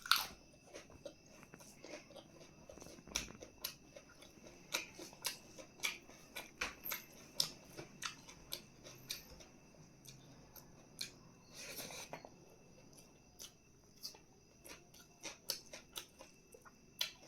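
Close-miked eating sounds: irregular wet clicks and smacks of chewing and biting, with a short louder rustle about twelve seconds in.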